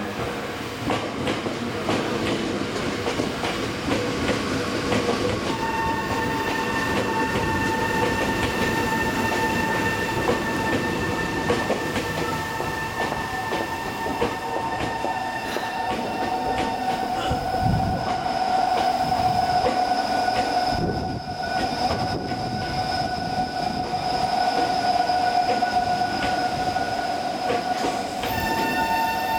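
Tokyo Metro electric commuter train pulling into the platform, its cars running past with steady wheel-on-rail noise. From about five seconds in, several high steady whines sound over it, changing pitch about halfway through.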